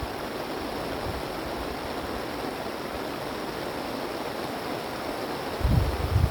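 Strong wind blowing with a steady rush, and a gust buffeting the microphone with a low rumble near the end.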